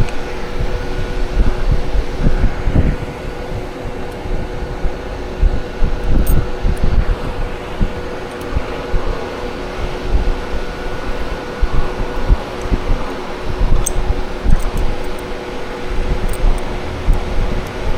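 A steady mechanical hum with a few faint steady tones, under an uneven low rumble and a few faint clicks.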